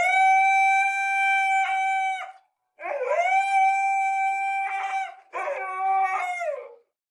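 Dog howling: three long howls, each rising into a steady held note, the last one falling off at its end.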